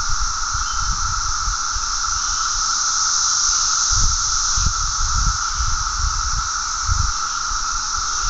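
Roar of a chorus of 17-year periodical cicadas, the males' mating call: a steady, unbroken drone made of a mid-pitched hum and a higher hiss layered together. Brief low rumbles come and go underneath.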